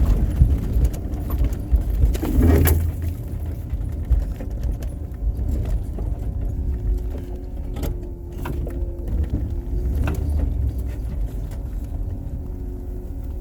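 Snowplow vehicle's engine running with a steady low rumble while plowing snow, with occasional knocks and light rattles, one sharper clunk about two and a half seconds in.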